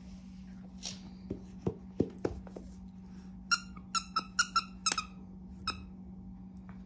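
Rubber squeaky toy squeaked about seven times in quick succession, each a short, high squeak, after a few light knocks and thuds. A steady low hum sits underneath.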